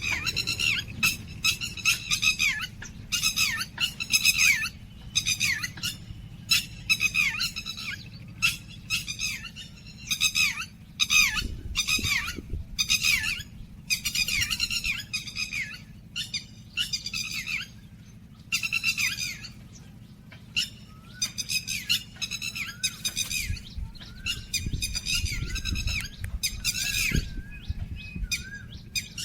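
Songbirds at a feeder calling repeatedly: a rapid run of short, harsh chirps, several a second, with a few soft low bumps underneath.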